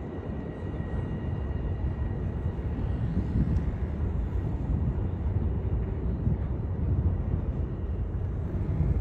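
Low, steady rumble of a Metro-North commuter train approaching along the elevated tracks, mixed with city background noise.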